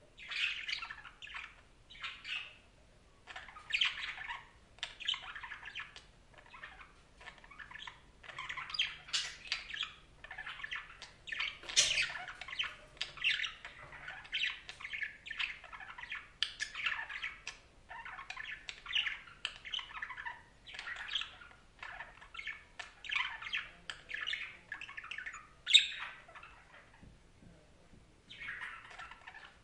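Budgerigars chattering: a steady run of short chirps, squawks and warbles with brief pauses, one sharp squawk standing out near the end.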